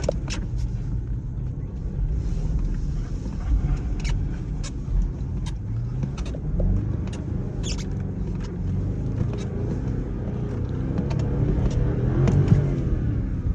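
BMW X5 50i's twin-turbo V8 revving up and down while the SUV spins in snow, its pitch rising and falling and climbing sharply about twelve seconds in. Scattered sharp clicks are heard over the engine.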